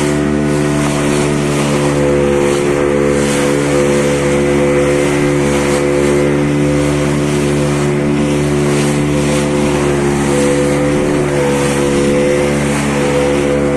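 An engine running steadily at constant speed, with a hiss of noise above its hum.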